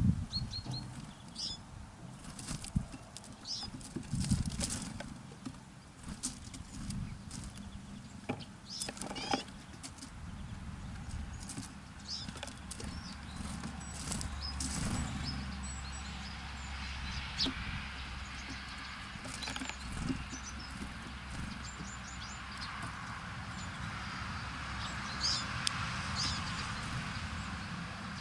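Small birds at a winter feeder: wings fluttering as they land and take off, with scattered sharp taps and brief high chirps.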